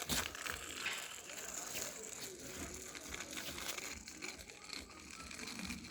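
Irregular crunching and crinkling handling noise with many small clicks.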